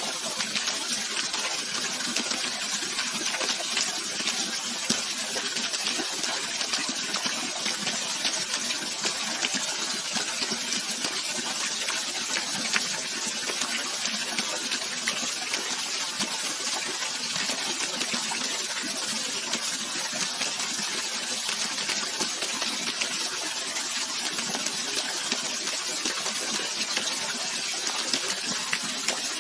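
Running water rushing steadily, a continuous splashing hiss with many fine crackles and little deep rumble.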